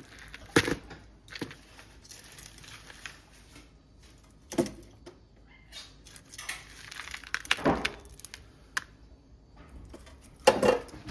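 Crushed cornflake crumbs crackling and rustling as chicken pieces are pressed and turned in them, with a few sharp knocks spread through.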